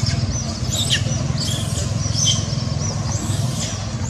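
A steady low rumble like a running motor, with high-pitched chirps and several short squeals falling in pitch over it.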